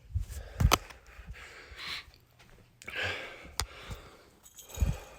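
A man breathing hard right after a long set of burpees, with heavy exhales about two and three seconds in. Several knocks and thumps are heard, the loudest less than a second in.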